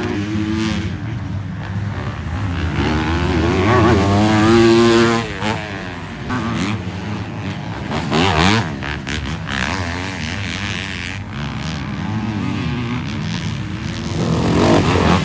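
Motocross bikes racing past, their engines revving up and down with the throttle and gear changes, the loudest pass about four to five seconds in.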